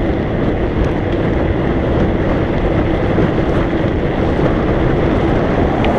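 Wind rushing over the microphone and tyre noise from a mountain bike being ridden on a road, a steady loud rush with a faint steady low hum under it.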